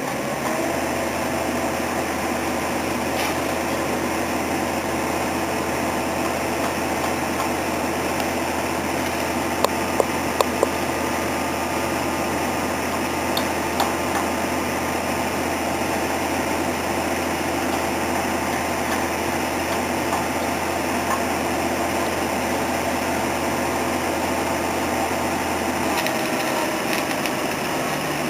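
A pile-driving rig's engine running steadily, with a deep hum that drops away near the end. A quick run of four sharp clanks comes about ten seconds in.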